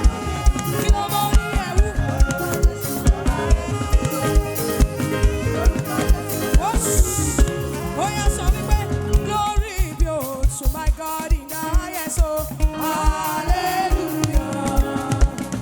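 Live African gospel worship band playing: an even kick-drum beat under sustained keyboard chords and bass, with gliding melodic lines over it and a cymbal swell about seven seconds in.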